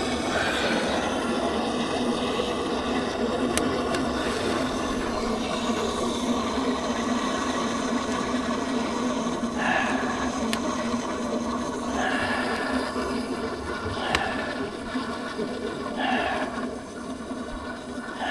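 Steady rush of running water, with a few faint sharp clicks.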